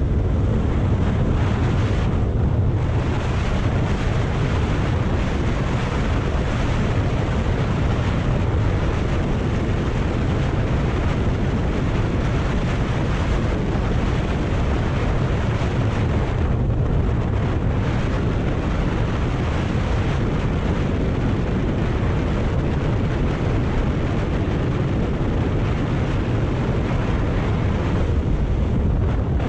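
Wind rushing over the microphone on a moving motorcycle, with the Kawasaki Ninja 400's parallel-twin engine running steadily underneath. The wind eases briefly about two and a half seconds in and again around the middle.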